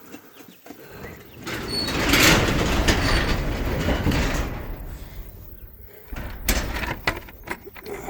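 A sliding door rumbling along its track for a few seconds with a faint squeak, then a knock and a few clicks as it is shut and latched.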